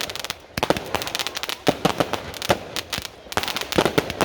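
Fireworks going off: rapid clusters of sharp bangs and crackling pops, with a short lull just after the start.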